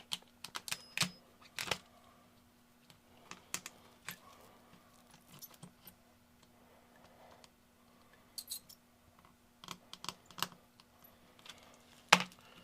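Irregular small sharp clicks and snaps of resin 3D-printed support stubs being cut away with an ultrasonic knife, the loudest a single crack near the end, over a faint steady low hum.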